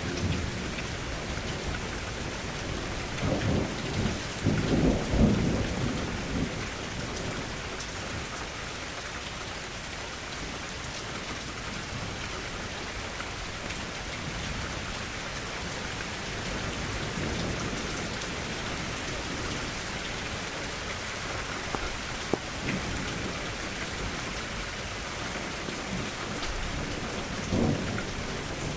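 Steady rain hissing, with low rolls of thunder about three to six seconds in and again near the end.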